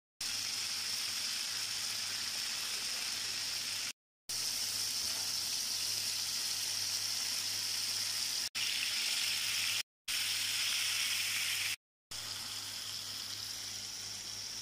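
Chicken pieces frying in oil in a pan: a steady, loud sizzling hiss, broken off abruptly by a few short silences.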